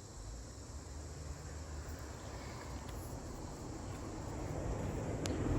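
Outdoor ambience of insects chirping, with a low rumble that grows louder toward the end.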